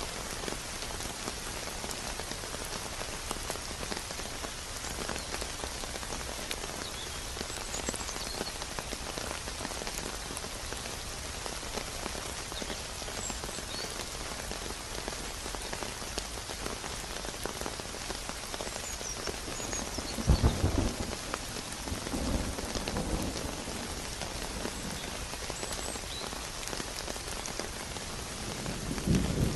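Steady rain falling, a dense even patter of drops. Low rumbles of thunder come about two-thirds of the way through, and another begins right at the end.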